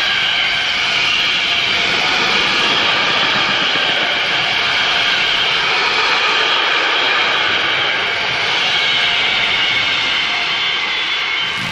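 Container freight train's flat wagons rolling past close by: loud, steady rolling noise of steel wheels on the rails.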